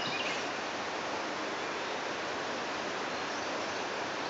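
Steady rush of a waterfall's running water, with a small bird chirping briefly at the start and again near the end.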